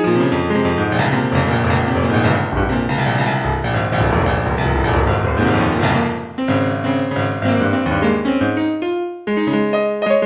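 Piano music playing, a flowing melody over sustained low notes, with a brief pause a little after nine seconds.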